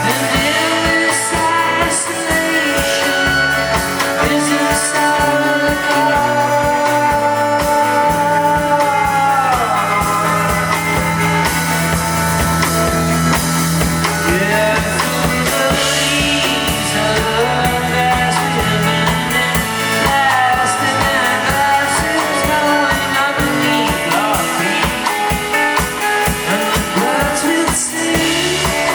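Live rock band playing a song: a drum kit keeps a steady beat under guitar and bass, with a voice singing over it.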